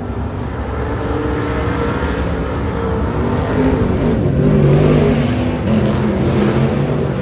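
A pack of IMCA stock cars racing on a dirt oval, several V8 engines revving at once with their pitches rising and falling. The sound swells as the field comes past, loudest about four to five seconds in.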